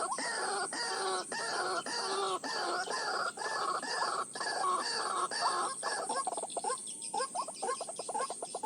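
White-breasted waterhen calls: loud, repeated falling notes about twice a second, breaking into a faster run of short notes near the end. This is the calling used to lure waterhens to a snare.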